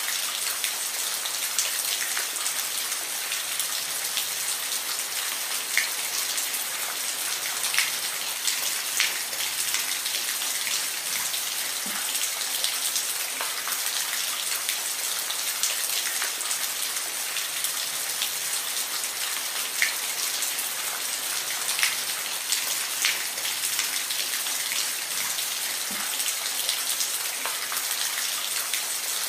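Steady rain falling, an even hiss with close, distinct drops ticking at irregular moments throughout.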